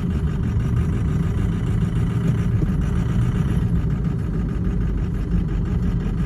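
Ford truck's 6-litre diesel engine running steadily at low revs under light load as the truck creeps forward on snow, heard from inside the cab.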